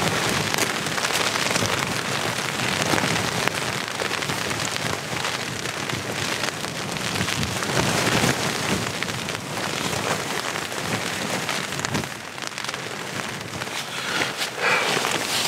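Rain falling on a tent's fabric, heard from inside the tent: a steady, dense patter of many drops.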